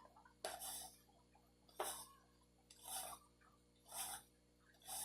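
Bearded dragon chewing superworms: five faint, short, rasping crunches about a second apart.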